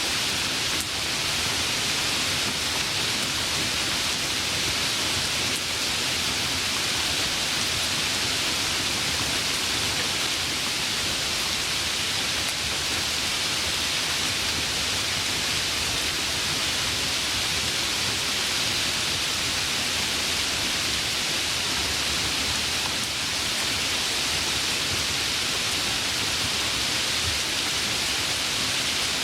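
Steady, even rain with a constant hiss and no distinct drops or thunder.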